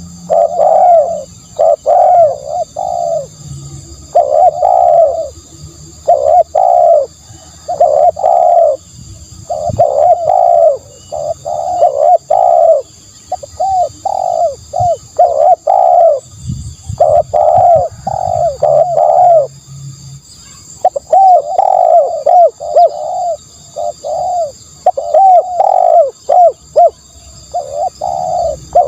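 Spotted dove cooing over and over, in phrases of several coos separated by short pauses, played as a lure call for doves.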